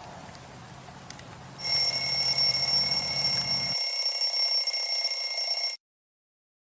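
Countdown timer's alarm going off loudly as the time runs out: a steady, high ringing of several tones that lasts about four seconds and then cuts off suddenly. Before it, a campfire crackles faintly.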